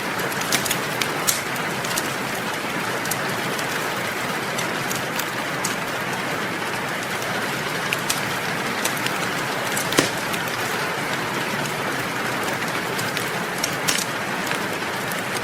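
Steady rain with scattered sharp crackles and pops from a wood fire; the loudest pop comes about ten seconds in.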